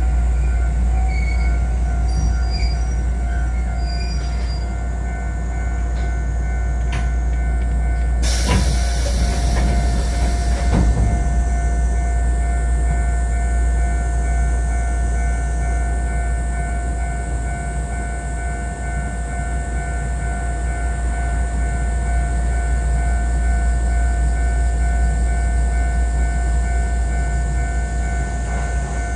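Kotoden 1080-series electric train running, heard from inside the front car: a steady low rumble of wheels on rail with several unchanging high ringing tones over it. About eight seconds in, a loud hiss rises for two to three seconds and then falls away.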